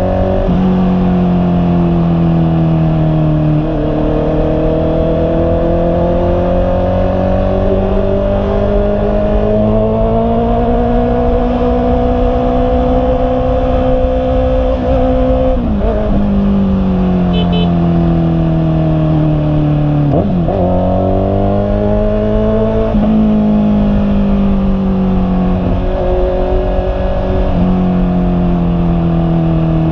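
Honda CB650R's inline-four engine running under way, its pitch climbing slowly and falling again, with several sudden pitch changes as gears are shifted.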